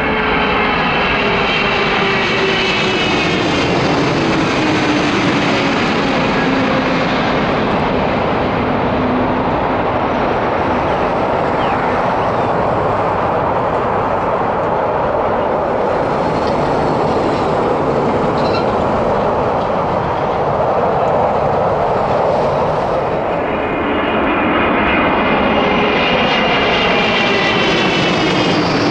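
Jet airliner's engines passing low overhead on final approach: a loud roar with a whine that falls in pitch as it goes by. A second airliner's engine whine builds in near the end.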